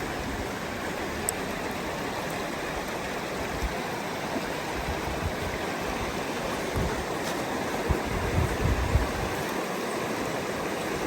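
Steady rushing of a flowing river or stream, with a few low bumps near the end.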